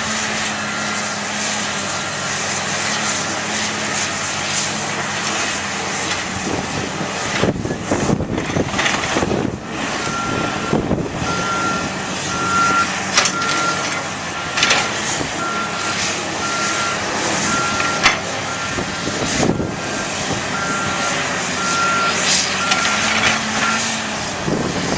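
Backup alarm on heavy equipment beeping about once a second over the steady noise of working diesel machinery, with a few sharp knocks in between.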